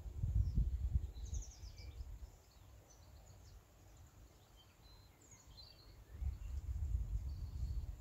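Faint scattered chirps and short calls of small songbirds. A low, uneven rumbling noise runs through the first two seconds and comes back from about six seconds in, and it is the loudest thing heard.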